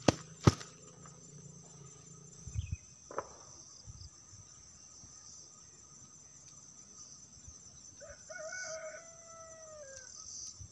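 A rooster crows once near the end, one long call of about two seconds that drops off at its close, over a steady high drone of insects. Two sharp knocks sound at the very start.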